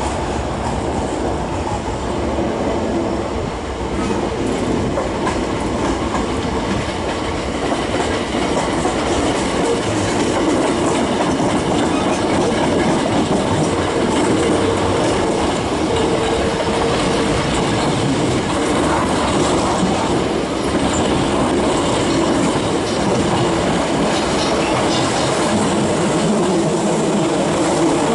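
Hankyu Railway electric commuter trains running on the tracks: a steady noise of wheels on rails that grows a little louder after about eight seconds.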